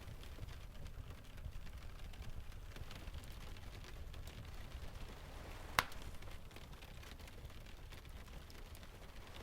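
Layered rain, ocean and fireplace ambience: a steady low rumble of distant surf and sea breeze with faint scattered ticks, and one sharp pop of the log fire a little past halfway.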